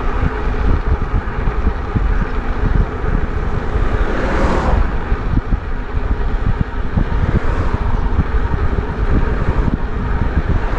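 Wind buffeting the microphone of a moving e-bike, a steady rumble, with a car passing on the road about four seconds in and fainter passes later.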